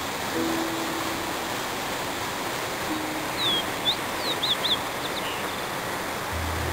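A small bird calling: a quick string of about eight short chirps that sweep up and down, starting about halfway through and lasting about two seconds, over a steady hiss.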